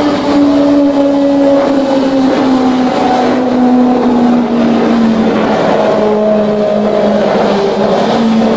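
Kawasaki ZX-25R's inline-four engine running at high revs through an aftermarket exhaust. Its pitch eases slowly down over most of the stretch, then holds steady near the end.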